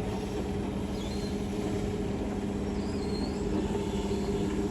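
Concrete mixer truck's diesel engine running steadily at low speed as the truck creeps forward, a continuous even hum.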